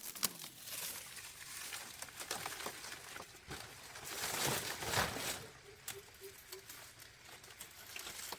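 Dry leaves rustling and crackling as they are handled, with scattered light clicks and a louder rustle about halfway through.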